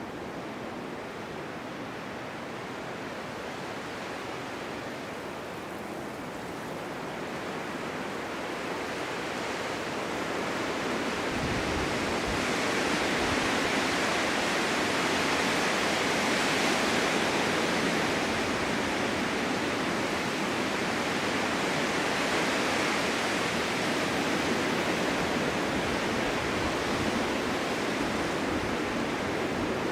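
Winter wind blowing in a snowstorm, a steady rushing that builds into a stronger gust from about a third of the way in and stays strong.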